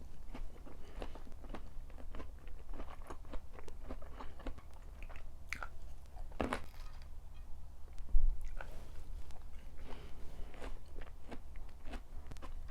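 Close-miked chewing and biting of food, with many small wet clicks and crisp crunches, one sharper crunch about six and a half seconds in. A low thump a little after 8 seconds is the loudest sound.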